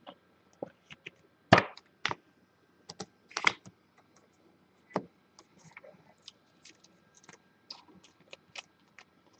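Trading cards and their packaging handled on a table: scattered clicks and taps, the loudest about one and a half and three and a half seconds in.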